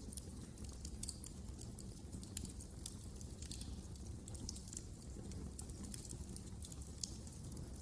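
Wood fire crackling in a fireplace: frequent, irregular sharp snaps and pops over a low, steady rumble of burning.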